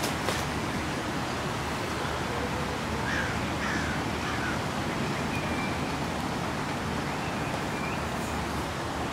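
A bird calling: three short calls in quick succession about three seconds in, then a few thinner calls later, over steady background noise.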